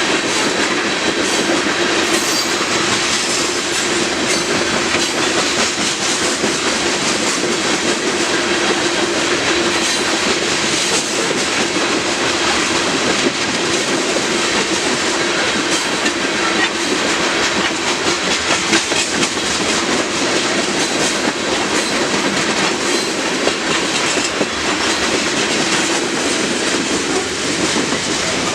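Loaded freight cars of a Union Pacific rock train rolling past at speed: a loud, steady rush of wheel-on-rail noise with rhythmic clickety-clack and a steady hum from the wheels.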